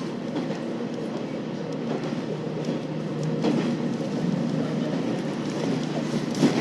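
KiHa 40 series diesel railcar running along the line: a steady low engine and running drone, with a few sharp rail-joint knocks, the loudest near the end.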